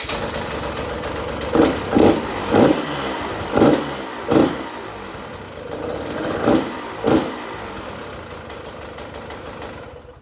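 A 2021 KTM 150 XC-W's single-cylinder two-stroke engine idles. Its throttle is blipped seven times in quick succession over the first seven seconds, each rev rising sharply and dropping back. It then runs steadily, gradually quieter, near the end.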